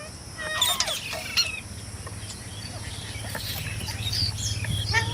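Green parrots calling: a few harsh, squawking calls in the first second and a half, then softer, scattered chirps. A low steady hum runs underneath.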